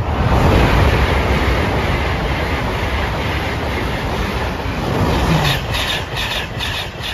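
Express passenger train passing close by at speed: a loud rushing of wheels and air that swells in at once. From about five seconds in it becomes a regular rapid clatter of wheels over the rail joints, roughly three clacks a second.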